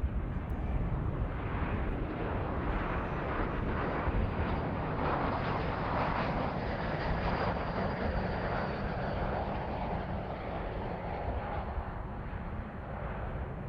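Jet airliner passing by, its engine noise swelling to a peak in the middle and then fading, with a faint high whine over the rush.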